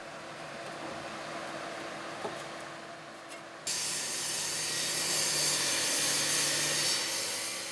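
Steady whirring of a workshop power tool. About halfway through it changes abruptly to a louder, hissier noise that tapers off slightly near the end.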